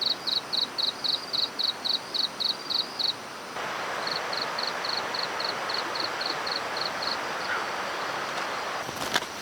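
Insect chirping in a fast, even pulse of about five high chirps a second, stopping about three seconds in. A steady rushing hiss then takes over while fainter chirping carries on, and a couple of sharp knocks come near the end.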